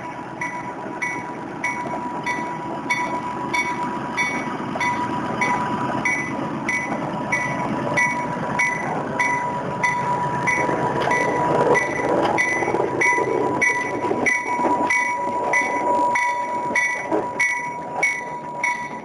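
Locomotive running on the track, with a steady tone and a rhythmic ringing about twice a second throughout.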